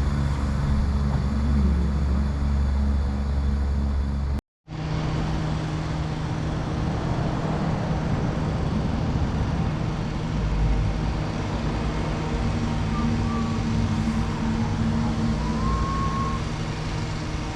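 Steady engine noise with low droning tones, broken by a brief cut to silence about four seconds in.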